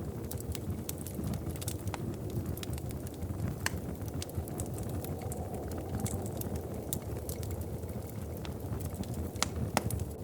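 Wood fire in a fireplace crackling: sharp, irregular pops and snaps scattered over a steady low rumble, with a few louder pops near the end.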